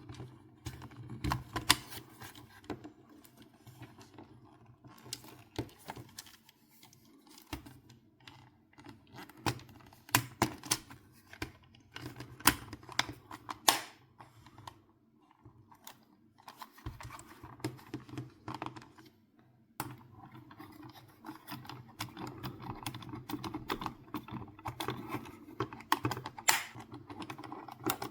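Irregular light clicks and taps, coming in clusters with short pauses between, over a low steady hum.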